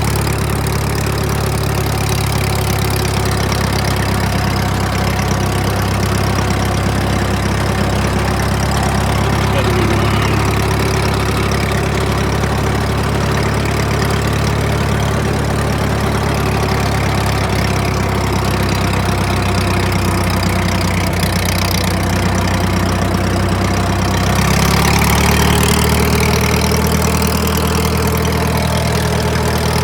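Truck engine running steadily; about 24 seconds in its pitch steps up a little and it gets slightly louder.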